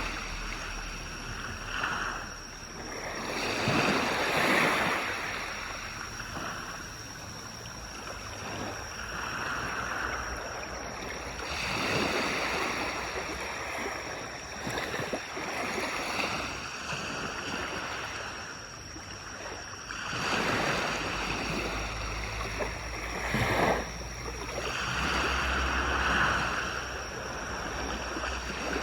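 Small waves breaking and washing up a beach, each surge swelling and falling back every few seconds, with a low rumble of wind.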